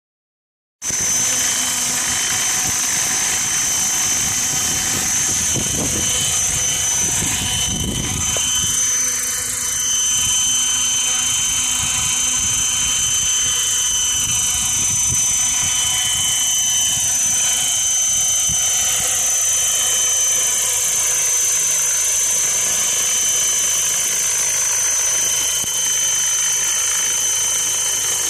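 Innova600 RC helicopter in flight: a steady high whine of the rotor drive with the rotor's noise, starting about a second in, and no sign of the abnormal noise it made before its latest adjustment.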